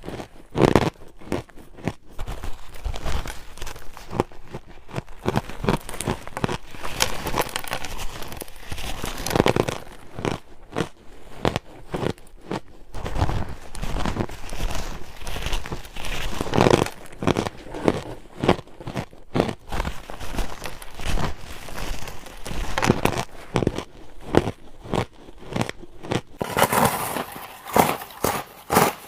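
Ice being bitten and chewed: irregular crunches and crackles, one after another.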